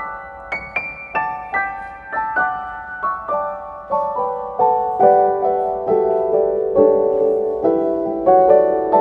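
Background piano music: a melody of evenly paced, struck notes stepping gradually lower in pitch.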